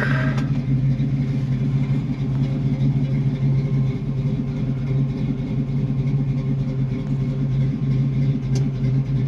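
Ford 260 V8 of a 1964½ Mustang idling steadily with a low, even hum.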